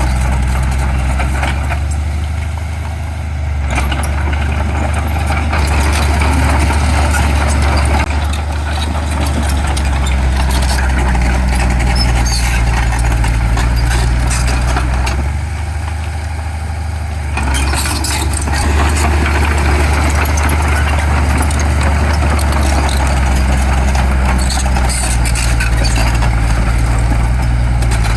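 Heavy diesel earthmoving machinery running steadily and loudly, with scattered clanks and rattles over the engine.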